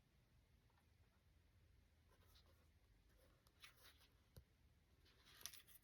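Near silence with faint paper rustling and a soft tap, as a page of a picture book is turned; the rustle is strongest near the end.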